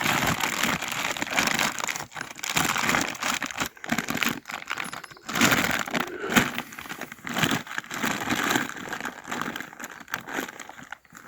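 Crinkling and rustling of material being handled, in irregular bursts with short pauses between them.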